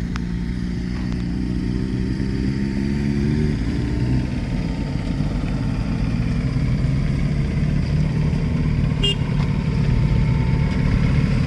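Motorcycle engine running, with a steady even note for the first three or four seconds, then a rougher low rumble that slowly grows louder.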